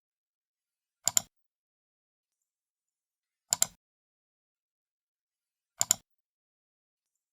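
Computer mouse left button clicked three times, each click a quick double tick as the button goes down and springs back up, with a couple of seconds of silence between clicks.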